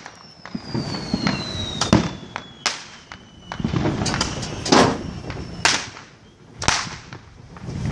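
Fireworks going off: a run of sharp bangs and cracks at uneven intervals, with a whistle falling steadily in pitch over the first few seconds.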